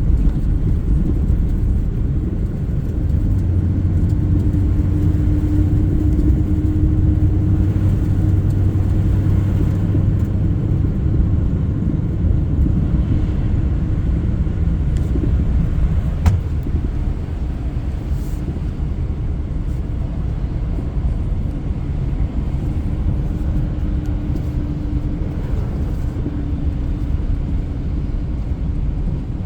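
Car driving on the road, heard from inside the cabin: a steady low engine and tyre rumble with a constant hum, easing off a little past the middle.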